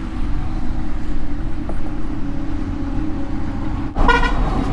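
Steady low rumble of strong wind and highway traffic. About four seconds in there is a short, high vehicle horn blast.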